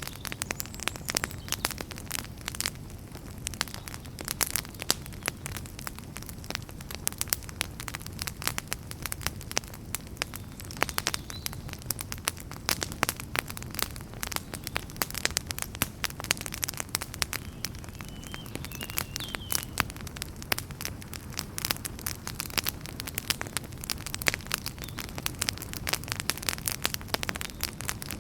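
Campfire crackling, with dense, irregular sharp pops and snaps over a low, steady rumble.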